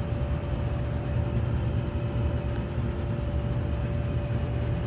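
Tempstar electric furnace's air handler running the central air conditioning on cool mode: a steady low rumble of moving air with a constant hum on one pitch above it.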